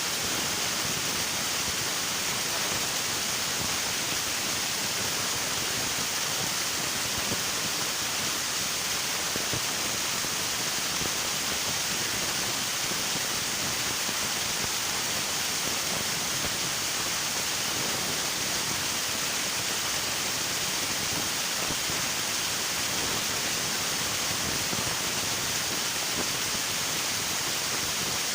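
River water rushing steadily, a constant even hiss with no distinct splashes or other events.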